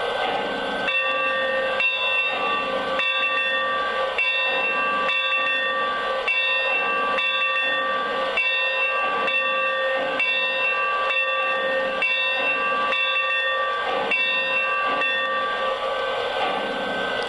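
Electronic steam-locomotive bell from a Lionel Legacy O-scale model's onboard sound system, ringing steadily about once a second over a continuous steam hiss.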